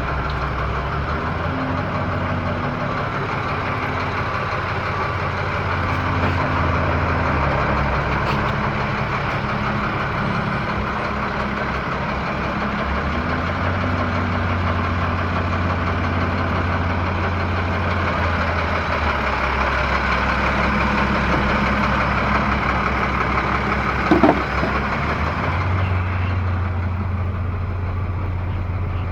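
Diesel engine of a Freightliner M2 106 dump truck running steadily. Its low note steps up and down between two pitches several times, and there is one brief sharper sound near the end.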